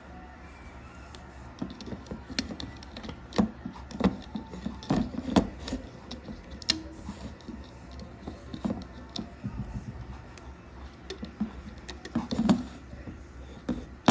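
Irregular small clicks and taps of rubber loom bands being stretched and snapped onto the plastic pegs of a Rainbow Loom, over a steady low hum.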